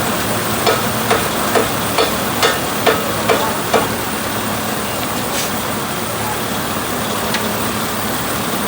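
Steady vehicle engine and road noise. In the first four seconds a run of about eight evenly spaced sharp clicks, roughly two a second, sounds over it.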